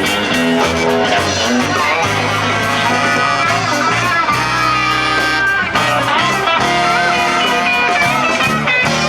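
Live band music led by electric guitar, with bass, played loud at an outdoor street-festival stage.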